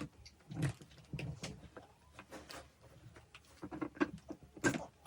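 Light knocks and clicks of chair parts being handled and fitted together during assembly, with a cluster of sharper knocks about four seconds in.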